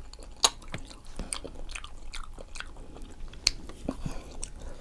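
A person chewing food close to the microphone, with wet mouth clicks and smacks; the sharpest clicks come about half a second in and again about three and a half seconds in.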